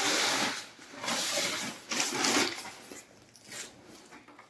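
Cardboard and plastic packaging rustling and scraping as a heavy boxed robot vacuum cleaner is slowly pulled out of its carton, in three bursts, then quieter near the end.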